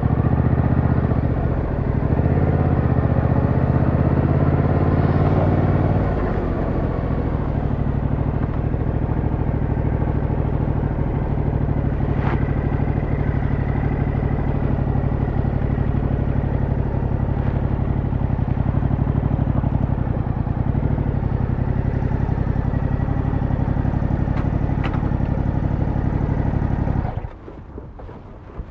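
Yamaha MT-07's 689cc parallel-twin engine rising in pitch under throttle for the first few seconds, then holding a steady idle. It is switched off near the end and cuts out suddenly.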